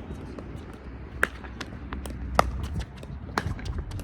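Pickleball paddles hitting the ball in a rally: sharp pops about a second apart, three strong ones with the middle one loudest, among lighter taps and shoe sounds on the court. Wind rumbles on the microphone underneath.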